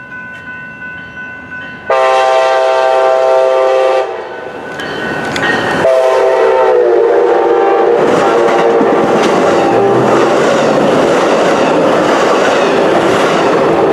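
Grade-crossing bells ringing, then a passing train's horn: a two-second blast about two seconds in, and a second long blast that drops in pitch as the locomotive goes by. The train then rushes past with loud wheel and rail noise while the horn sounds on.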